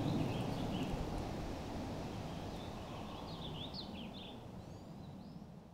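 Outdoor ambience: a low, even background noise with small birds chirping several times, mostly in the middle stretch, the whole fading out toward the end.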